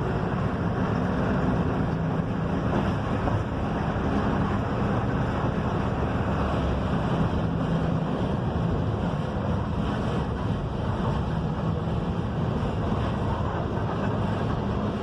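Mercedes-Benz OF-1721 bus under way, its diesel engine running steadily under a constant wash of road and wind noise.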